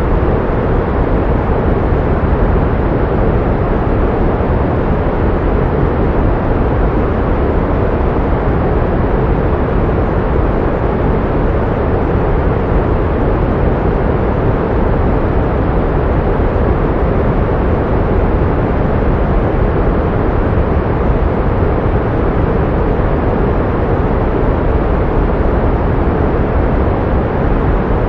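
Steady pink noise: an even, unchanging hiss with its weight in the low and middle range and little high treble.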